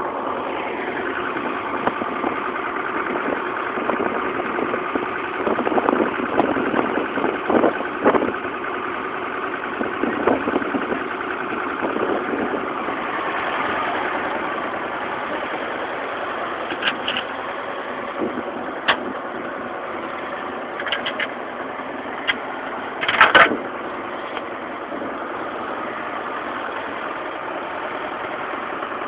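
Oliver 1755 tractor engine idling after a cold start from two weeks of sitting. It runs steadily, with a patch of sharp knocks and clatter about six to eight seconds in and a brief louder burst a little past twenty seconds in.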